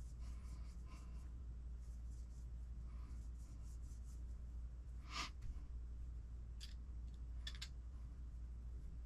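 Quiet handling of small RC transmission parts during differential assembly: light rubbing and ticking, a short scrape about five seconds in and two small clicks a little later, over a steady low hum.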